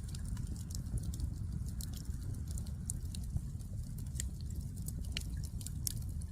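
Firewood fire crackling: many sharp, irregular pops and snaps over a steady low rumble.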